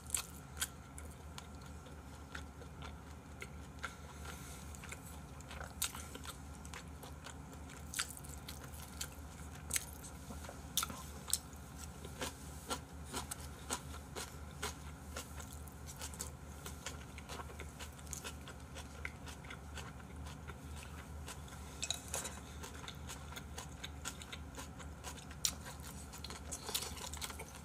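People chewing and biting mouthfuls of smoked duck close to the microphone, with scattered small clicks and crunches, over a steady low hum.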